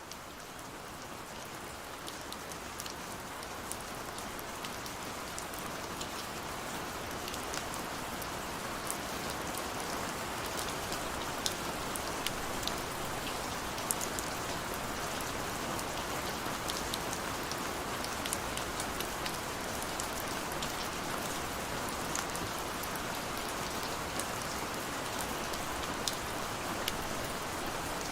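Steady rain, an even hiss with scattered sharp ticks of single drops, swelling up over the first several seconds and then holding level.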